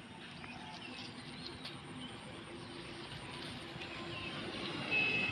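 Quiet outdoor ambience: small birds chirping faintly over a steady low hum of distant engines, with a brief high steady note near the end.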